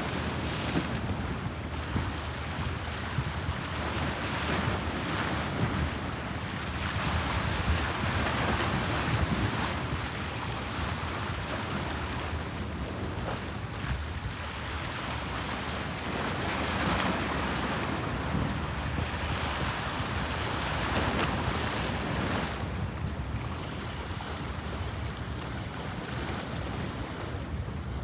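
Bosphorus sea waves washing in, swelling and ebbing every few seconds, with wind buffeting the microphone as a low rumble.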